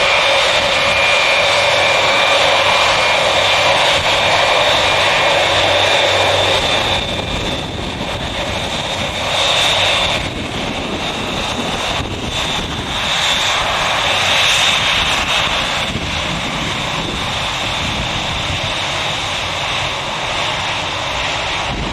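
Douglas DC-8's Pratt & Whitney JT3D turbofan engines running loud at high power, a high screaming whine over a broad roar. About seven seconds in the whine fades and the noise turns rougher and uneven, crackling as the jet draws away.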